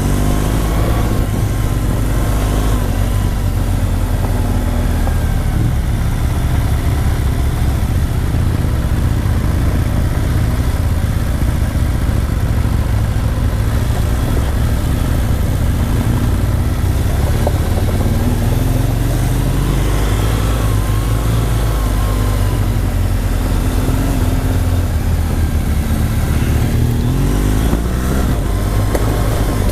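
Motorcycle engine running under way with steady wind rush, its note rising and falling now and then with the throttle.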